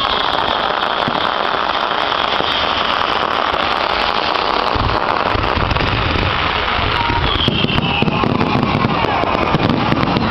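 Fireworks going off in a dense, continuous crackle of many small pops, with a high, slightly falling whistle about seven and a half seconds in.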